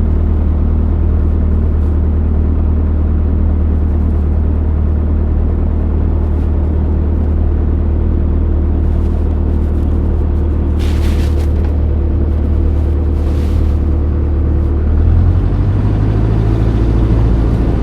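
Cessna 152's Lycoming O-235 four-cylinder engine running steadily, heard in the cockpit; its pitch steps up slightly about 15 seconds in.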